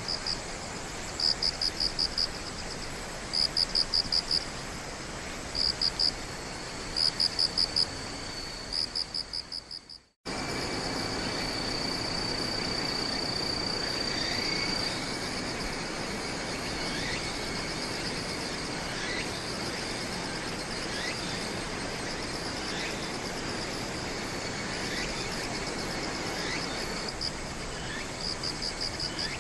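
Night insects chirping: repeated short bursts of rapid high pulses. About a third of the way in the sound fades out and a different chorus starts, a steady high trill with faint falling chirps, and the pulsed chirping comes back near the end.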